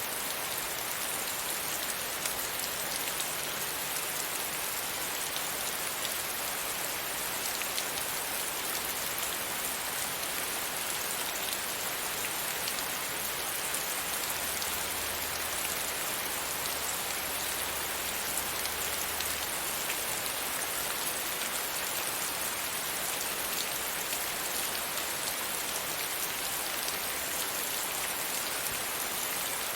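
Steady rain pattering against a window pane, an even hiss of drops with fine individual taps.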